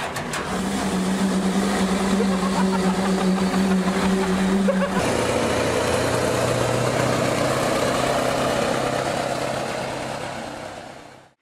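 Heavy earthmoving machinery working, its engines running loud. A steady pitched drone holds for the first five seconds, then cuts abruptly to a different, rougher engine sound.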